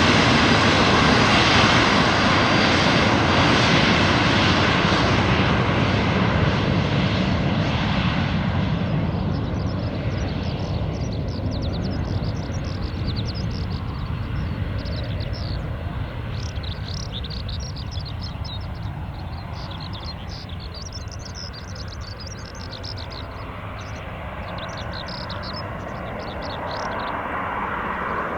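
Twin turbofan engines of a Cessna 510 Citation Mustang just after takeoff, the jet noise fading steadily as the aircraft climbs away. From about a third of the way in, high chirps sound over the fading engine noise.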